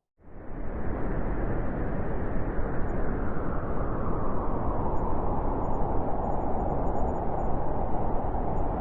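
Blizzard wind blowing as a steady rushing noise, fading in from silence at the start and then holding strong.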